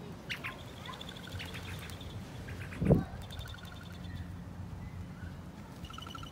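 Birds making rapid trains of high, evenly spaced pulsed whistles, several times over. A single dull thump about three seconds in is the loudest sound.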